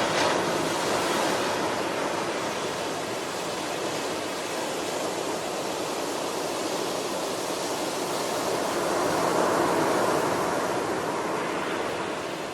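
Ocean waves breaking and washing in as a steady surf. It swells right at the start and again, more broadly, about nine seconds in.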